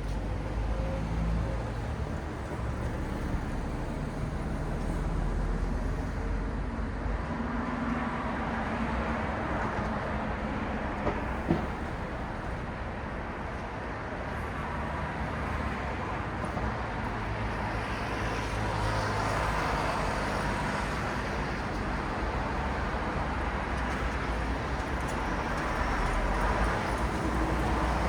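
City road traffic at night: a steady wash of tyre and engine noise, swelling as vehicles pass twice, with low engine hum and one sharp click partway through.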